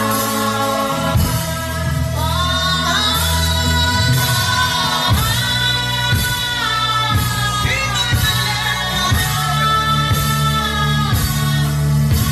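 A man humming a gliding worship melody over instrumental accompaniment with held bass notes and light percussive strokes.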